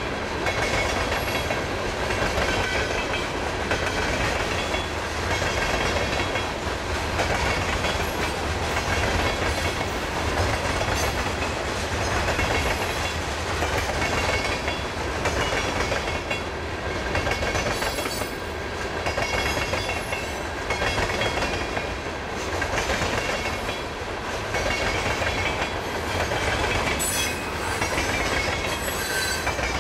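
Freight train of covered hopper cars and tank cars rolling past, its steel wheels on the rails making a continuous rumble that swells and eases slightly.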